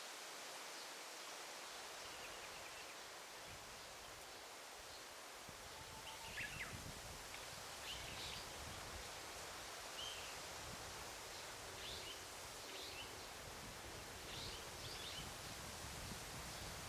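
Daytime forest ambience: a steady hiss of leaves rustling, with small birds giving short high chirps several times from about six seconds in. A low rumble joins about five seconds in.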